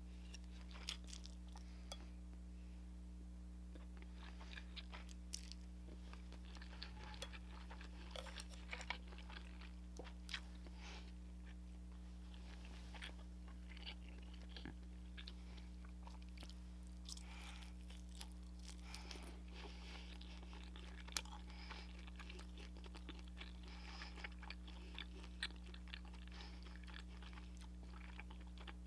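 Close-miked eating sounds: chewing and biting into crispy fried soy chicken, with many short, sharp crunches and wet mouth clicks scattered throughout, over a steady low hum.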